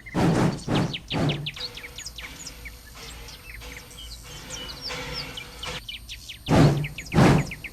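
Rhythmic exhaust beats of the small passenger train's locomotive fade out within the first second and a half, leaving birds chirping and a faint steady tone. Near the end the beats come back loud and even, a little under two a second.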